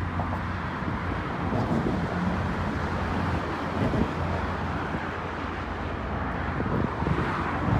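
Steady outdoor rumble and hiss of vehicle noise, with no sharp events.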